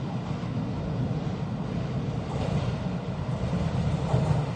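Taiwan Railway EMU900 electric multiple unit approaching along the track into an underground station: a low, steady rumble that grows slowly louder as the train nears.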